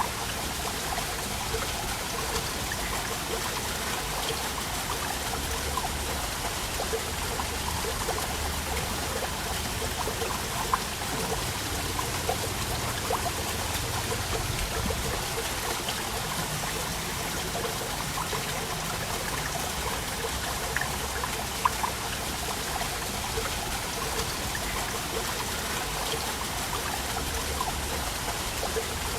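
Waterfall: falling water rushing steadily, with small splashes and drips through it and a couple of sharper splashes standing out.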